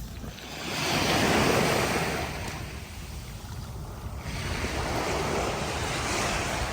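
Sea waves washing onto a beach, with wind on the microphone. The surf swells about a second in, eases off, then builds again toward the end.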